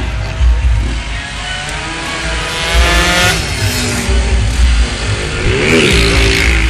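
Motorcycle engine revving hard as it accelerates, its pitch rising for about two seconds before cutting off, then a shorter rev up and down near the end. Heavy bass from music runs underneath.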